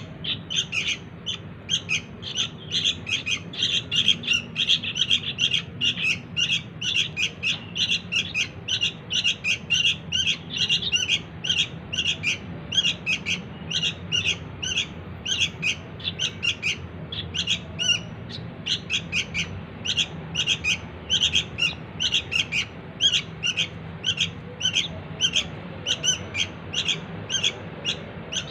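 Sooty-headed bulbul (kutilang) chick calling: short, harsh chirps repeated about three times a second without a break. These are the begging calls of a young bird, which draw in the parent birds.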